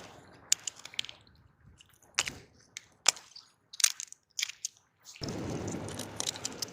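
Sharp, scattered clicks and clacks of hard snail shells knocking against rock and each other as rock snails are picked by hand, followed near the end by a stretch of rustling handling noise.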